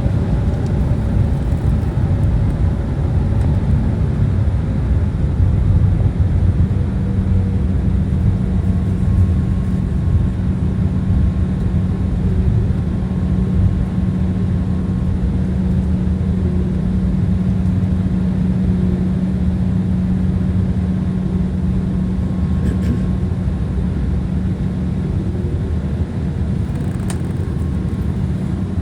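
Cabin noise of an Embraer ERJ-175 airliner with its General Electric CF34 turbofans running, heard from inside near the wing: a loud, steady rumble. A steady low hum comes in about seven seconds in and drops away near the end.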